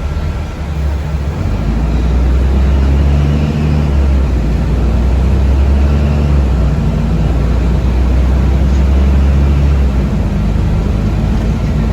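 Low, steady rumble of a city passenger vehicle in motion, heard from inside the cabin. It grows louder about a second and a half in and eases off slightly near the end.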